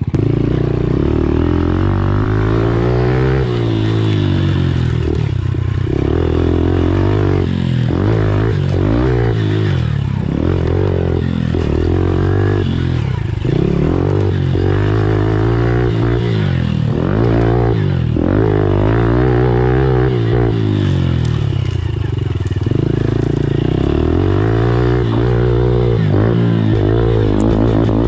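Pit bike engine being ridden hard: revving up and falling back over and over, every second or two, as the rider works the throttle.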